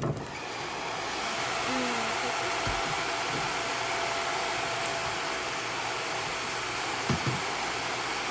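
Hair dryer switched on, its rush of air building over the first second, then running steadily with a faint steady whine, drying a prairie dog's fur.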